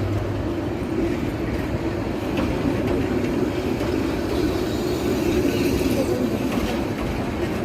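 Train running on the rails, a steady continuous noise without breaks.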